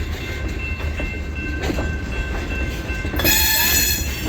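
DeQueen and Eastern freight train rolling past with a steady low rumble. A brief shrill wheel squeal comes about three seconds in.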